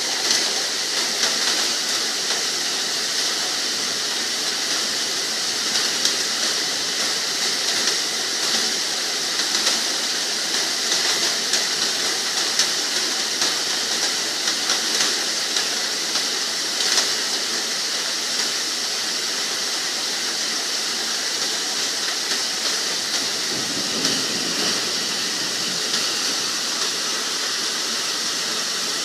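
Rain falling steadily: an even hiss of drops with many small sharp ticks of individual drops striking.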